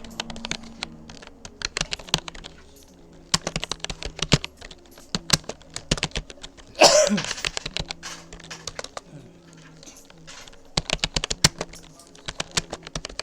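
Typing on a Rapoo computer keyboard: fast runs of key clicks broken by short pauses. About seven seconds in, a short, loud vocal sound with a falling pitch cuts across the typing.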